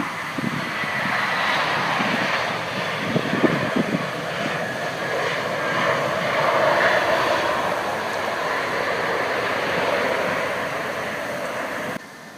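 Airbus A320 jet engines running as the airliner comes in to land, a steady rush with a high whine, swelling about halfway through and easing off; it cuts off suddenly near the end.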